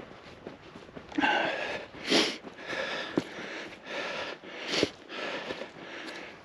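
A walker's heavy breathing while climbing a steep hill, breaths coming about once a second, with a few sharper, louder ones.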